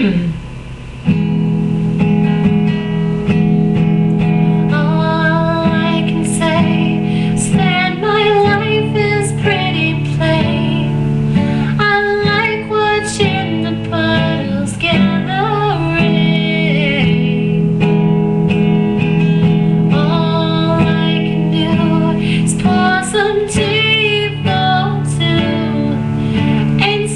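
A beginner strumming chords on a guitar while a woman sings along. A brief knock comes right at the start, the strumming begins about a second in, and the singing joins a few seconds later.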